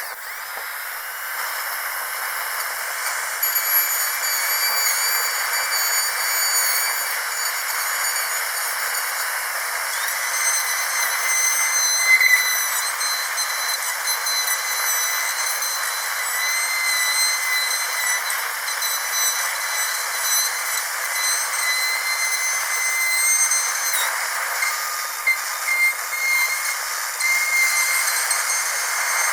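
Dentist's drill whining at a high, steady pitch over an airy hiss, the whine wavering slightly.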